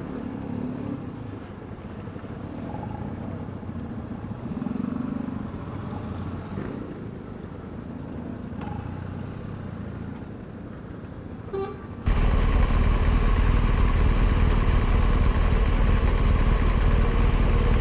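Motorcycle riding in traffic, with engine and road noise. About twelve seconds in, the noise jumps suddenly to a much louder, steady rush.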